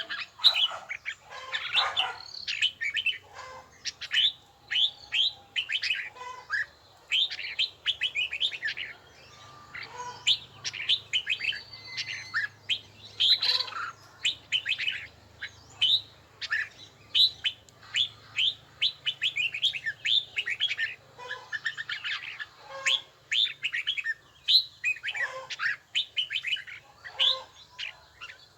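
Red-whiskered bulbul singing: phrase after phrase of quick, clear whistled notes that sweep downward, with short pauses between the phrases.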